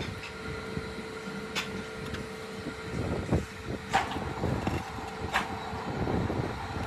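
Factory machinery running with a steady hum, broken by three sharp metal knocks.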